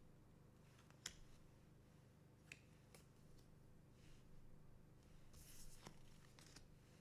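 Faint handling of trading cards: a few soft clicks and a brief swish of a card sliding, over a low steady hum.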